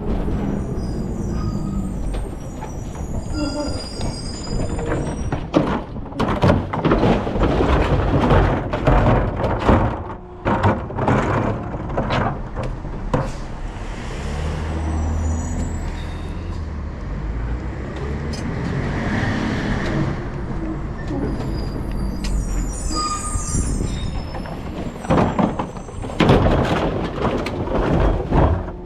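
Rear-loader recycling truck at work: its engine runs steadily under repeated clattering and banging, in two clusters, near the start and near the end.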